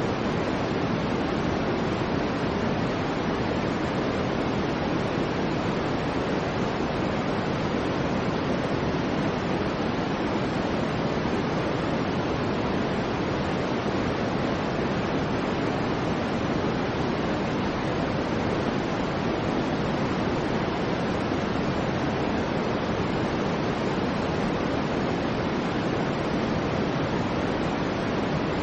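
Steady, soft synthetic noise, weighted towards the lower middle and softening towards the top: a sleep-aid noise track of the white or pink noise kind, unchanging throughout.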